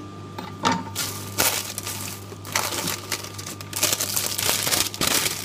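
Irregular crinkling and crunching of food and packaging being handled, growing busier about four seconds in, over the steady low hum of a running microwave oven.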